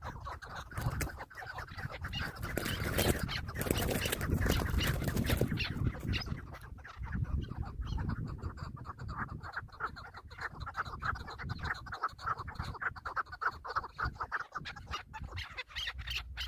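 Chukar partridges calling: runs of rapid, repeated clucking notes, thickest in the second half, with rustling and scattered clicks.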